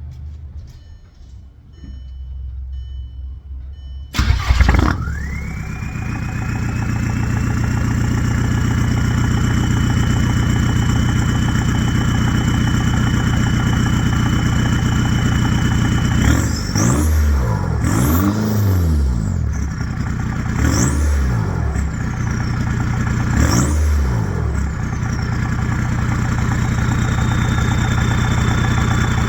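Volkswagen ALH 1.9 TDI four-cylinder turbodiesel starting about four seconds in, then idling with a steady high whine from its freshly rebuilt turbo. It is revved three times in the second half, and the turbo whine rises and falls with each rev.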